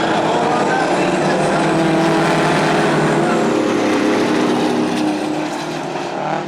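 Several racing semi trucks' diesel engines running hard together, their pitches overlapping and rising and falling, easing off slightly near the end.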